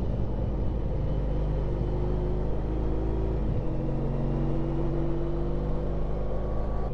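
Honda ST1300 Pan European's V4 engine running under way, with road and wind noise. The engine note dips briefly about halfway through, then climbs slowly.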